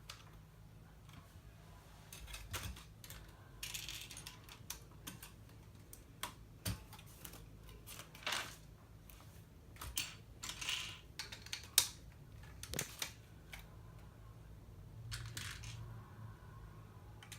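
Plastic LEGO bricks clicking and clattering as they are handled, sorted and snapped together, with scattered sharp clicks and short rustles, the loudest about twelve seconds in.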